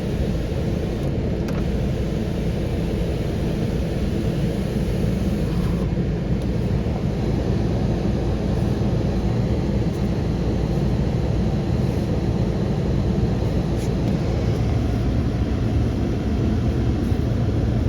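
A Volvo B5204T 2.0-litre turbocharged five-cylinder engine running steadily.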